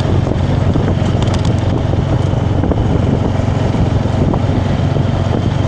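Small off-road bike engine running steadily under way, a low even drone, with wind rushing over the microphone.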